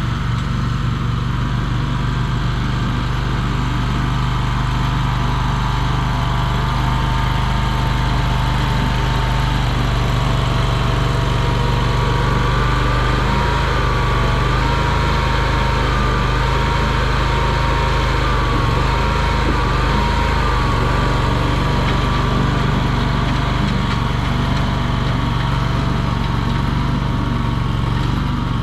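Mini skid steer's engine running steadily, with a higher whine over it that wavers in pitch in the middle stretch.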